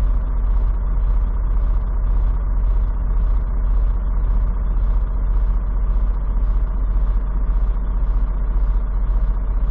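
Semi truck's diesel engine idling with a steady low drone, heard inside the cab. A faint ticking repeats evenly about twice a second.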